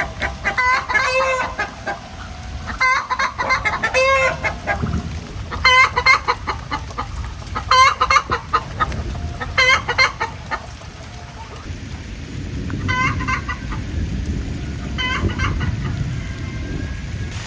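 Chickens clucking and cackling in loud groups of calls about every two seconds, growing sparser in the last third. Underneath is a low rush of wind and rain that swells in the second half.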